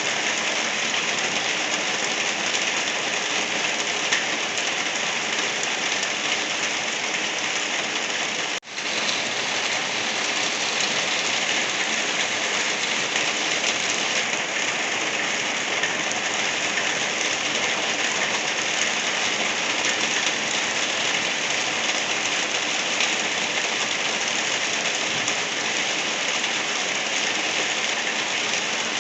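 Steady rain falling and pattering on surfaces, an even hiss of many drops. The sound dips out for a split second about nine seconds in, then carries on unchanged.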